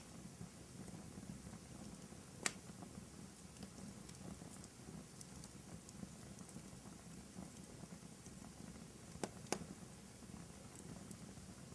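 Wood fire burning in a fireplace: a faint steady crackle with a few sharp pops, one about two and a half seconds in and two in quick succession about nine seconds in.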